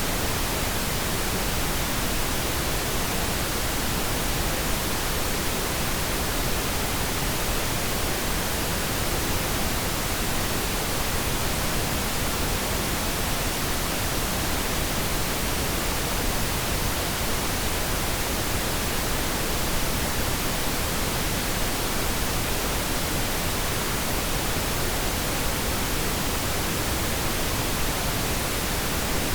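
Steady synthetic pink noise: an even, unchanging hiss across all pitches, played for tinnitus masking.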